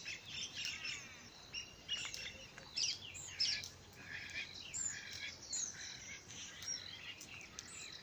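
Wild birds chirping and calling: many short, overlapping high calls and whistles from several birds.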